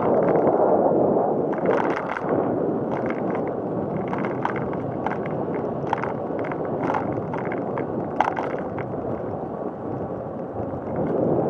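Steady rush of wind and rolling noise on the microphone of a camera riding along on a bicycle, with scattered light clicks and rattles; it cuts off abruptly at the end.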